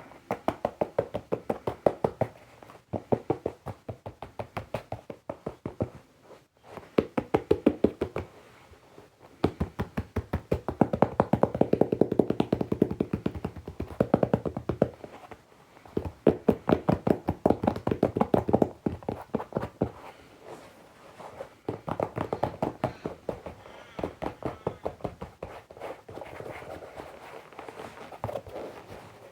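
Fingertips or nails tapping quickly on foam-rubber Croc clogs: rapid runs of dull, hollow taps lasting a few seconds each, separated by short pauses.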